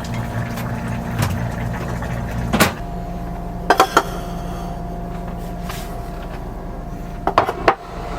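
A vehicle engine running with a steady low hum, its note shifting a little under three seconds in. Sharp clicks and knocks sound over it: one as the note shifts, two about a second later, and a quick cluster near the end.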